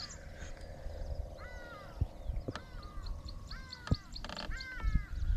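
A bird calling four times, about a second apart: short harsh calls that step down in pitch, with a few sharp clicks between them.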